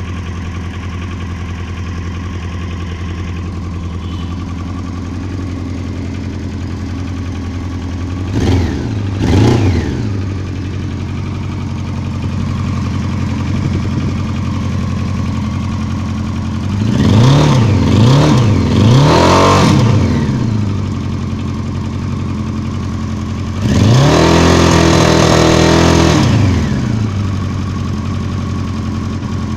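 Honda CBR 900 inline-four motorcycle engine idling, with two short throttle blips about eight seconds in, three quick blips a little past halfway, and a longer held rev after that. It makes an odd noise that the owner suspects is either a connecting-rod knock or poor carburetion.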